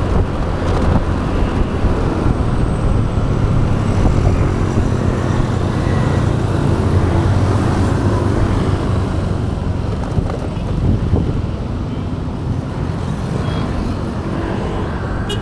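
Motorbike ride in city traffic: steady engine and road noise, with wind rushing over the action-camera microphone.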